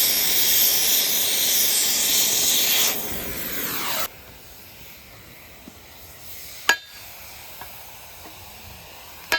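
Gas cutting torch hissing loudly, dropping a little about three seconds in and cutting off abruptly about a second later. A sharp knock follows midway, and another at the end.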